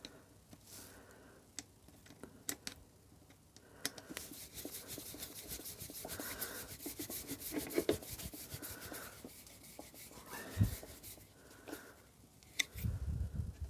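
Small metal and plastic parts of a motorcycle airbox being handled and fitted, with rubbing and light clicking, and a denser run of fine ticks and scraping in the middle.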